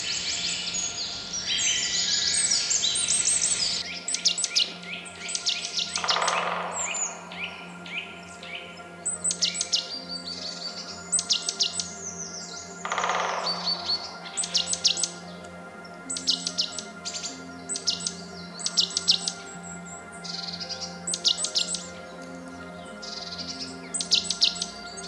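Jungle birds calling: a dense chorus of birdsong, then about four seconds in short bursts of rapid chirping trills repeated every second or so, with two long falling calls.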